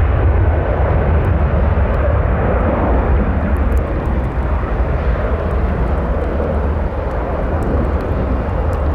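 Jet airliner on a slushy runway, throwing up spray: a loud, steady engine rumble that eases slightly toward the end.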